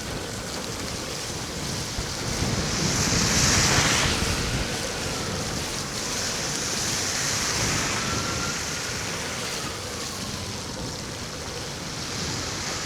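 Wind rushing over the microphone and the hiss of an electric scooter's tyres on a wet, slushy road, swelling about four seconds in, with a faint whine that rises and falls in pitch.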